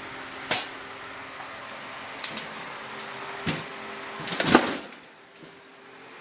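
A few sharp knocks and clatters over a steady hiss, the loudest cluster about four and a half seconds in.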